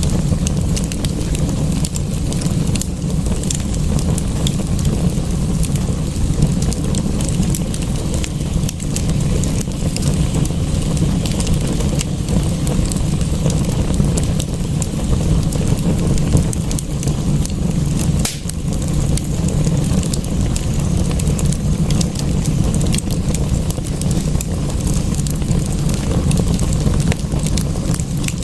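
Wood fire crackling in a fireplace, with many small sharp pops over a steady low rush of rain.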